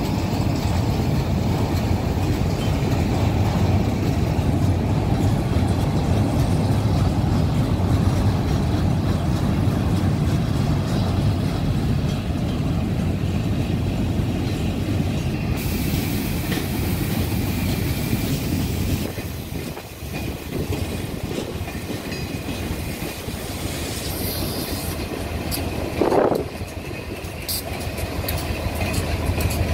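Freight train of railcars rolling past at close range, with a steady rumble and the clickety-clack of wheels over the rail joints. Near the end, the train's EMD diesel locomotives draw near.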